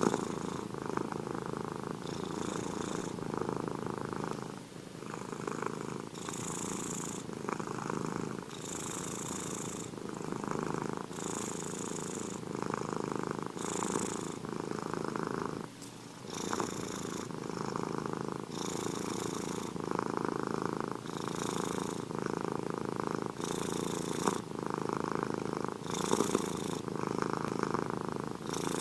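A domestic cat purring close up and steadily, the purr swelling and easing with each breath in a regular rhythm.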